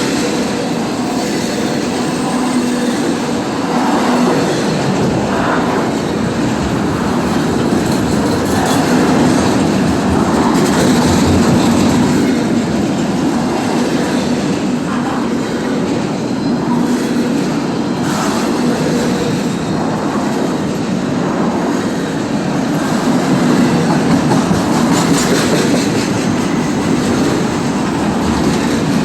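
Intermodal freight train cars rolling past in a steady loud rumble, with wheels clicking over rail joints.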